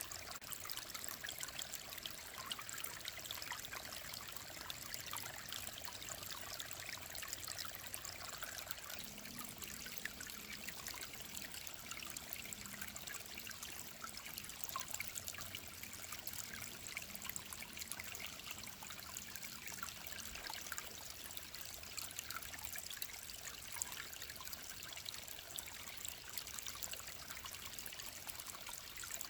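Mountain stream trickling and babbling steadily, a continuous fine splashing of running water.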